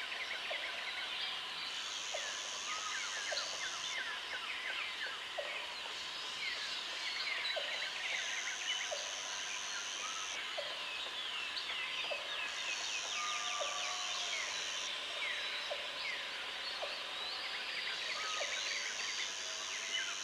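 Tropical forest ambience: many birds chirping with quick falling notes over a steady chorus of insects. A high insect buzz about two seconds long comes back five times, every few seconds.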